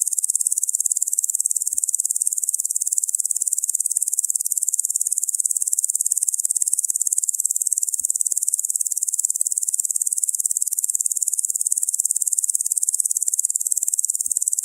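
Locusts chirring: a dense, steady, high-pitched insect buzz with a fast, even pulse.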